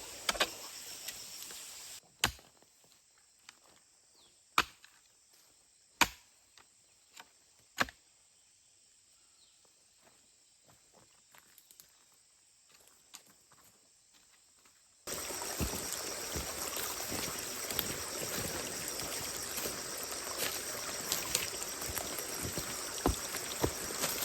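A handful of sharp single knocks, one to two seconds apart, typical of a hoe chopping into soil. Under them is a steady outdoor hiss with insects that drops away for the middle stretch and comes back suddenly, louder, about halfway through.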